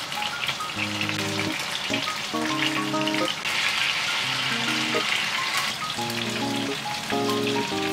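Chicken frying in hot sesame oil in a pan, a steady crackling sizzle that is densest in the middle, under background music.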